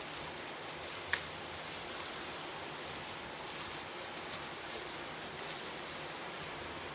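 Close-up eating sounds of someone biting and chewing a piece of fried boneless chicken, with a sharp click about a second in and faint soft crackles later, over a steady hiss.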